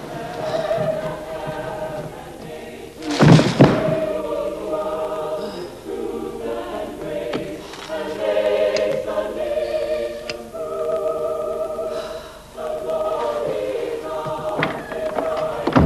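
A choir singing slow, held notes. A heavy thud about three seconds in is the loudest sound.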